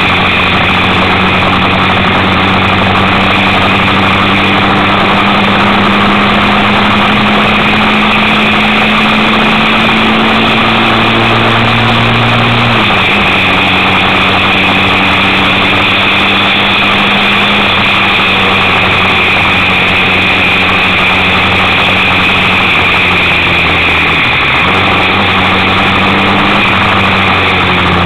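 Kymco Quannon 125cc motorcycle engine running under way at a steady road speed, its note climbing slowly and then dropping sharply about 13 seconds in, with another brief dip near the end. A steady rushing noise runs beneath the engine.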